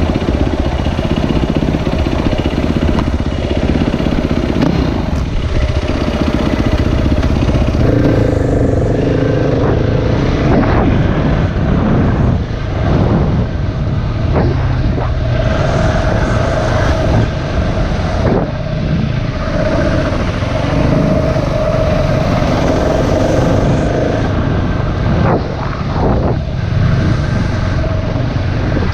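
Single-cylinder four-stroke dirt bike engine running on a trail ride, its pitch rising and falling with the throttle, with a few sharp thumps along the way.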